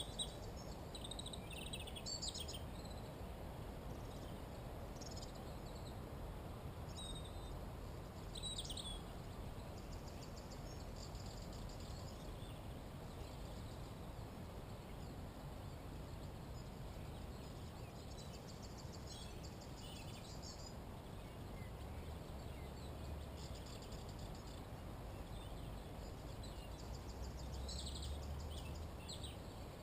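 Wild birds singing in the morning: scattered short high chirps and phrases, with a rapid trill of two to three seconds repeated several times, over a steady low rumble.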